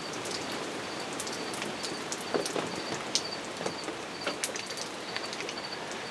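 Heavy thunderstorm rain pouring and splashing off an awning, a steady hiss broken by individual drop splashes. Through it, a faint high chirp repeats about twice a second.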